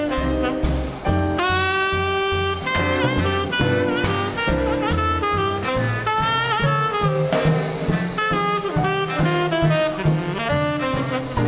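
Small-group swing band playing an instrumental chorus: a saxophone solo with wavering held notes over a walking bass line and drums.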